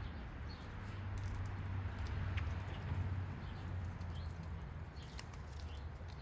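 Small backyard birds giving short, faint chirps now and then over a steady low rumble.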